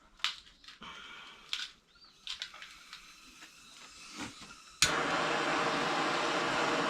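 A few light clicks and knocks of metal being handled, then nearly five seconds in a gas torch lights with a sharp click and burns with a steady hiss, heating the bent mower blade again to straighten it.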